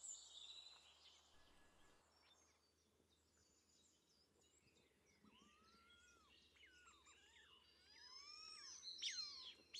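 Faint songbird calls over near silence: the first few seconds are almost quiet, then from about halfway comes a series of whistled notes that arch and glide up and down, growing louder near the end.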